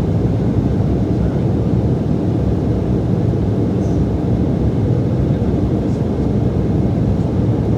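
Steady cabin noise of an Embraer E175 jet in flight after takeoff: engine and airflow noise heard from inside the cabin, low and even throughout.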